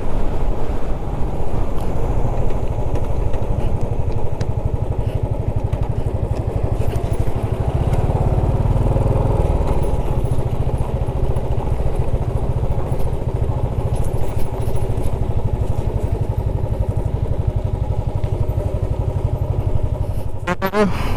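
Motorcycle running steadily, a constant low engine rumble with no pauses or sharp changes.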